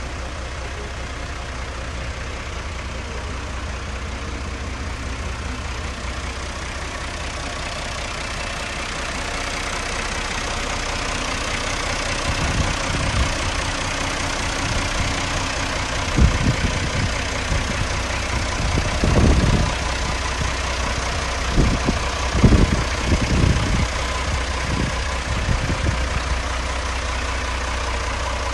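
Fiat 980 DT tractor's diesel engine running steadily, getting slightly louder. A few short low thuds come through in the second half.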